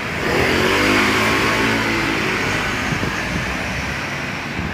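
Street traffic noise, with a motor vehicle engine passing by and fading over the first two seconds.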